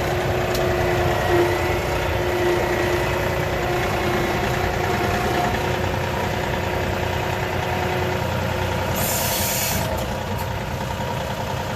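John Deere 3038e compact tractor's three-cylinder diesel engine running steadily, heard from inside its soft vinyl cab. There is a brief hiss about nine seconds in.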